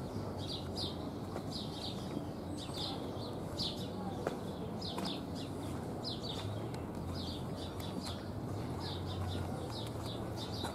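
Small birds chirping continuously, several short falling chirps a second, over a low steady hum.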